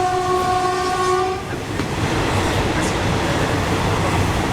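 Train horn sounding one steady blast that cuts off about a second and a half in. Underneath it the moving train rumbles and rattles on the rails.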